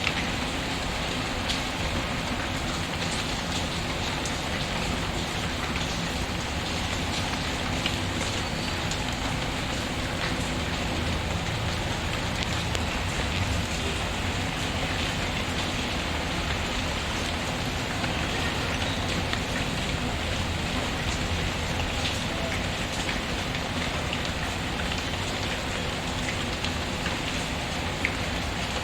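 Steady rain pattering, mixed with the crackle of a wood fire in a fireplace: scattered sharp pops over an even hiss of rain.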